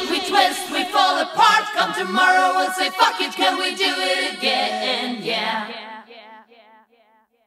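Choir singing a cappella, the voices wavering in pitch and dying away about six seconds in.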